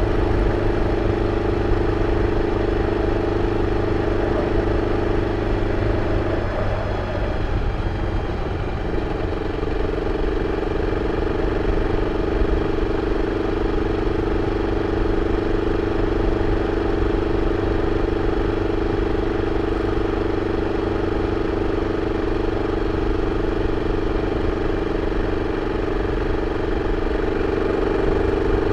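BMW F 650 CS single-cylinder engine running steadily through its original exhaust, with a brief change in its note about seven seconds in.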